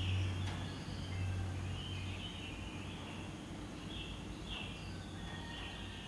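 Birds chirping, many short high calls scattered throughout, over a low steady hum that fades out about two and a half seconds in.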